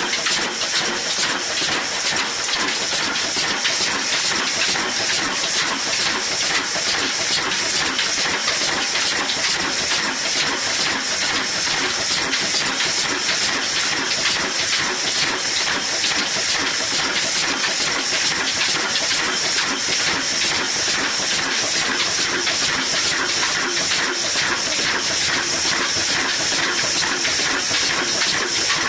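Old Ruston Hornsby single-cylinder diesel engine running steadily and driving a wood-cutting saw: an even, fast beat with a steady high hiss over it.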